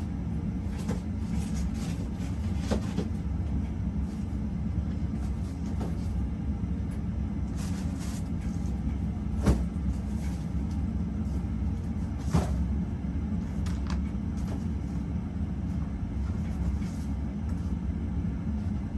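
Winco ceiling fan coasting down unpowered after switch-off: a steady low rumble with a few light clicks, its bearings running smoothly with no grinding, which the owner takes for good bearings.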